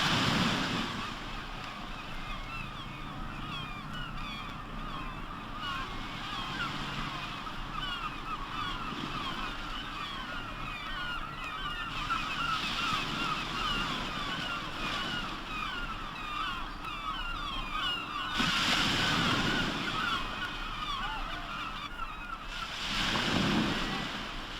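A large flock of seabirds calling continuously in a dense chatter of short cries, over waves washing on the shore. The surf swells up louder twice in the last third.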